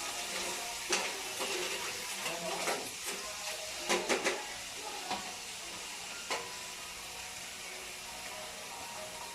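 Food frying in oil in a pan, a steady sizzle, with a few short clinks and scrapes of a utensil stirring, a quick cluster of them about four seconds in.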